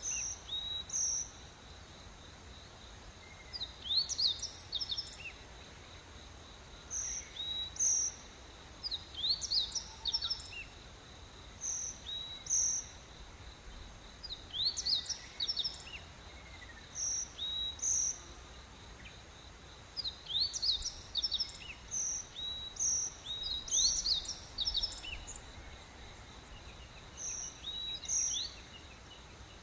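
Tropical rainforest birds singing in the morning: phrases of quick upward-sweeping whistles come every few seconds, between short high notes in pairs, over a steady thin high insect drone.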